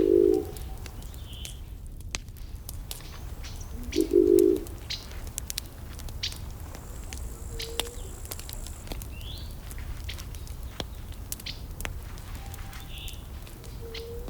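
Burning wood crackling with frequent sharp pops over a steady low rumble. A low cooing bird call sounds at the start and again about four seconds in, and small birds chirp faintly now and then.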